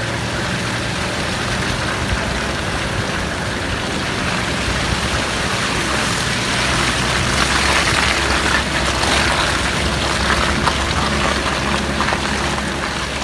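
Motor vehicle engine running with a steady low hum, under a broad rushing noise that grows louder around the middle and eases off near the end.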